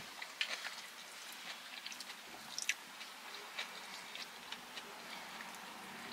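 Close-up mouth sounds of someone chewing a mouthful of poke bowl, with small clicks and taps of a metal fork picking at food in a plastic bowl scattered throughout.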